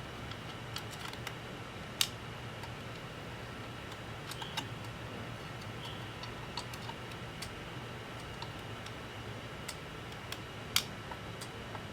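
Scattered small clicks and taps of tools and small parts being handled during a laptop repair, with two sharper clicks about two seconds in and near the end, over a steady hum.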